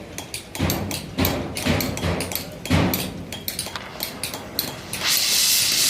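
Metal tools knocking and clanking in quick irregular strikes, some with a dull thud. About five seconds in, a loud steady hiss starts.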